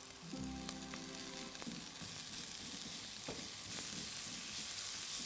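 Onions and ground spices sizzling in hot oil in a frying pan, the sizzle growing steadily louder, with a silicone spatula stirring them together partway through. The spices are being toasted in the oil before any liquid is added.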